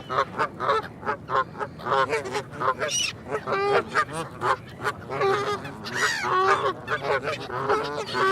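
Several geese honking: a dense run of short, overlapping calls, a few each second.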